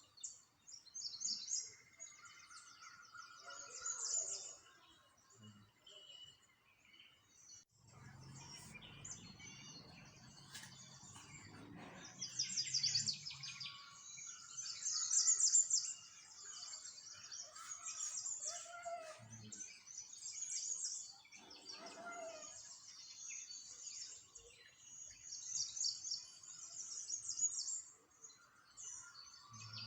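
Small songbirds chirping and twittering in quick high trills that come in bursts, several at once, with a low rumble for a few seconds about a quarter of the way in.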